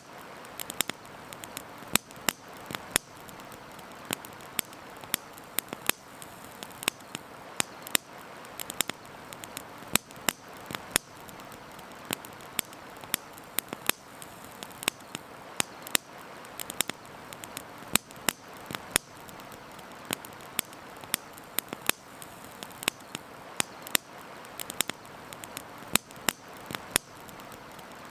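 Wood campfire crackling, with sharp irregular pops and snaps several times a second over a steady hiss of flowing river water.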